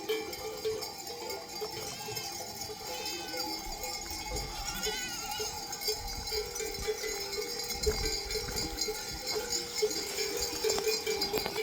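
Bells on a flock of sheep clanking continually and unevenly as the animals move and graze.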